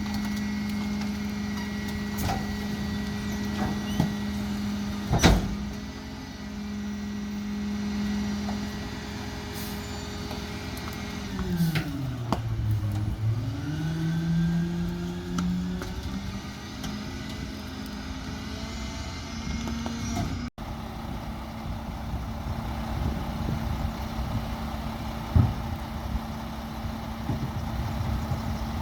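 Mack Granite rear-loader garbage truck's diesel engine running at a steady raised speed, with a sharp bang about five seconds in. Around twelve seconds the engine note drops sharply, then climbs back up and settles, and later it runs steadily again.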